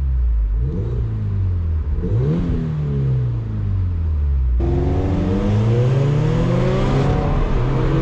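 Turbocharged flat-four car engine accelerating, revs climbing and dropping between shifts. A bit past halfway the sound suddenly turns louder and noisier, and the revs climb again.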